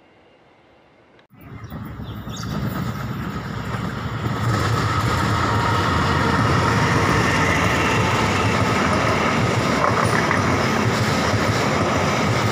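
After about a second of quiet, a diesel-electric locomotive hauling passenger coaches passes close by. The rumble of its engine and wheels on the rails starts abruptly, grows louder over a few seconds, then holds steady and loud, with a faint high whine running through it.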